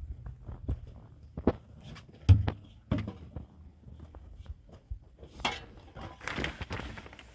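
Irregular knocks and clicks of hands handling hard objects, the loudest about two and a half seconds in, followed by a rustling, scraping noise over the last two seconds.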